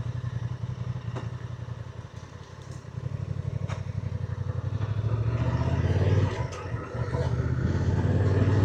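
Motorcycle engine running at low revs with a fast, even pulse. It dips briefly about two seconds in, then grows louder from about three seconds in.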